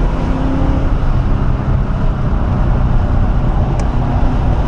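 1997 Ford Mustang SVT Cobra's 4.6-litre DOHC V8 running under load at speed on a race track, heard from inside the cabin as a loud, steady engine drone mixed with road and wind noise.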